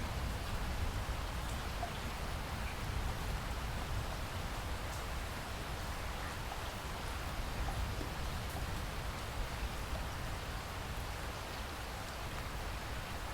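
Steady rain falling, with scattered single drop ticks over a constant low rumble.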